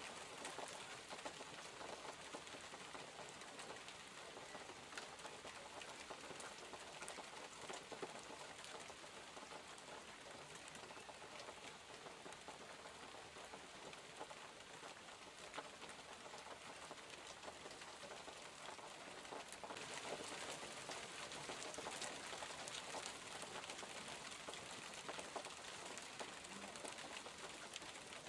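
Steady rain falling, a dense hiss dotted with the ticks of separate drops striking, growing a little heavier about two-thirds of the way through.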